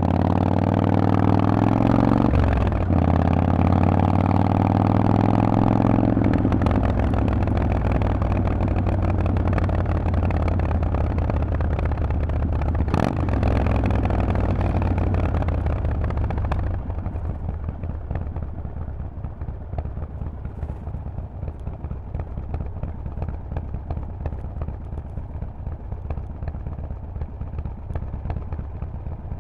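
Harley-Davidson Forty-Eight's air-cooled 1200 V-twin running through a loud Vance and Hines exhaust, revving up under acceleration with a gear shift about two seconds in. It then holds a steady cruise, and past the middle the throttle comes off and it runs quieter at lower revs.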